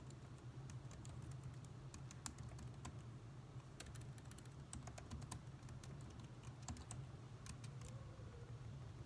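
Faint typing on a computer keyboard: irregular, quick keystroke clicks over a steady low background hum.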